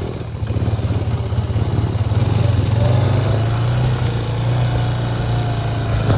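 Small off-road vehicle engine running steadily with a low, even hum.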